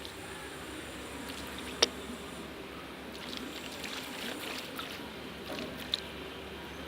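Water trickling and lapping around a kayak as it is paddled on a river, with one sharp knock a little under two seconds in and a fainter one near the end.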